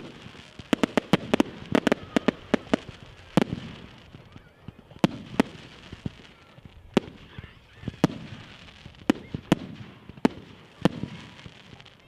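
Fireworks display going off: a quick string of sharp bangs in the first three seconds, then single bangs about once a second.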